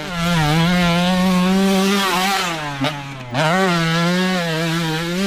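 Motocross bike engine sound revving at a high, buzzing pitch. The note sags about halfway through and then climbs back up, like a gear change.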